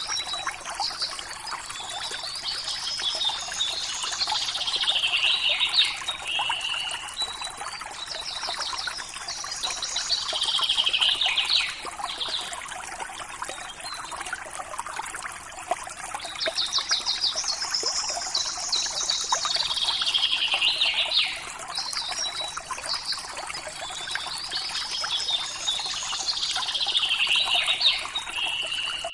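Running river water trickling steadily, with a songbird singing four long, high, warbling phrases, each about four seconds long and a few seconds apart.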